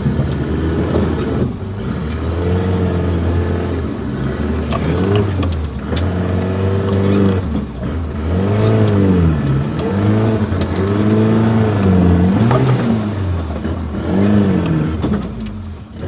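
Suzuki Jimny engine revving up and falling back again and again, its pitch rising and dropping every second or two as the four-wheel drive works along a rough forest trail.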